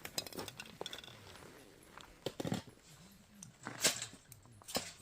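Wood campfire crackling, with irregular sharp pops and snaps, several louder ones in the second half. A low voice murmurs faintly underneath.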